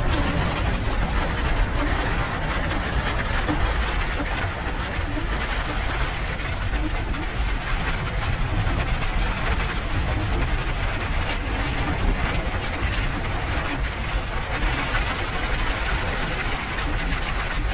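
Steady rain: a dense, even hiss with a low rumble underneath.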